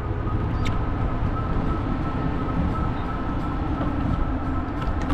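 Steady rumble of riding a fat-tire e-bike: wind buffeting the microphone and tyre noise, with a faint steady whine on top.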